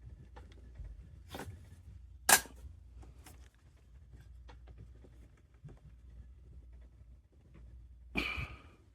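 Scattered light clicks and taps, with one sharp click a little over two seconds in and a short rustling burst near the end, over a faint low hum.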